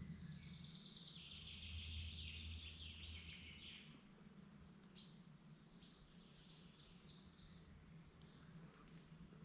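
A songbird singing in woodland: a phrase of quick repeated high notes running down into a lower trill, then after a pause a second run of repeated high notes, over a faint steady low rumble.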